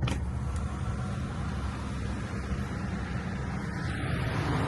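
Automatic car wash heard from inside the car's cabin: a steady hiss of washing equipment on the car's body that starts suddenly, over the car's low rumble.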